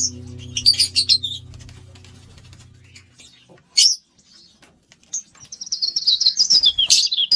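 Pet lovebirds chirping: a cluster of short, high chirps in the first second or so, a single chirp near the middle, then a quick run of chirps building from about five seconds in. A low held tone fades away during the first three seconds.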